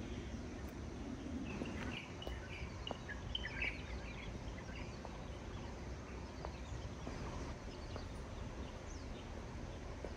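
Birds giving scattered short chirps against a steady low outdoor background rumble.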